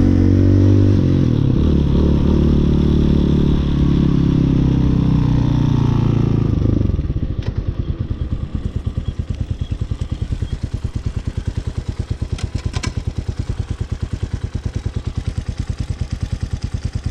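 Hawk 250 dual-sport motorcycle's single-cylinder engine running under throttle while riding, then about seven seconds in the throttle closes and it drops to a slow, even low-rev putter.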